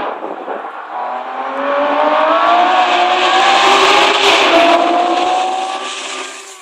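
Twelve-cylinder racing car engine accelerating hard, its note climbing, with a shift about four and a half seconds in before it climbs again. The car grows louder as it approaches, then fades as it moves away.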